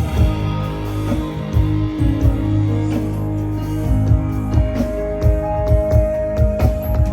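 A live band playing through the stage sound system at a sound check: sustained guitar notes over bass, with repeated low drum hits.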